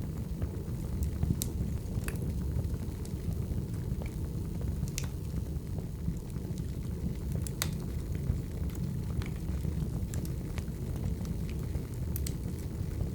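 Burning wood fire: a steady low rumble of flames with sharp, irregular crackles and pops from the logs.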